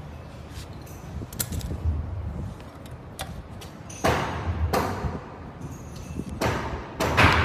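Scattered clicks and knocks of parts and tools being handled, with louder rustling, scraping bursts about four seconds in and near the end.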